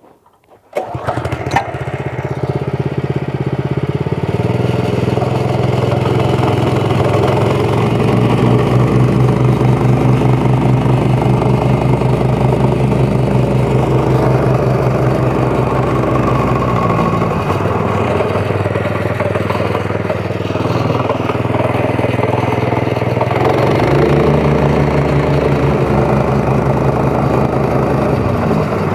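Small petrol engine of a compaction machine starting about a second in, then running steadily. Its note strengthens around eight seconds in, eases a little after the middle, and picks up again a few seconds before the end.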